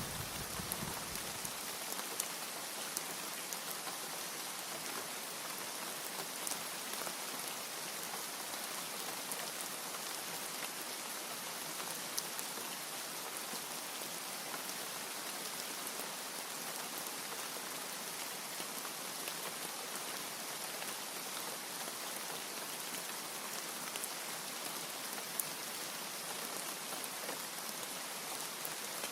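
Steady rain, an even hiss with scattered small drop ticks. The low tail of a thunder rumble dies away in the first second or two.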